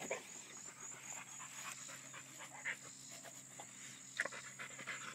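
A large dog panting faintly, with a short sharper knock about four seconds in.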